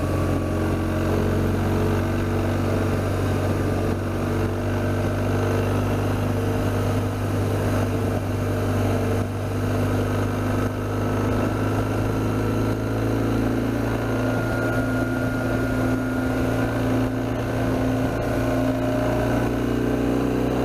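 BMW R1200GS Adventure's flat-twin boxer engine running steadily under way, heard from the bike itself. The engine note holds fairly even and rises slightly in the second half.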